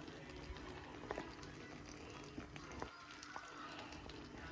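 Faint sizzling of food cooking in a pan, with scattered small pops.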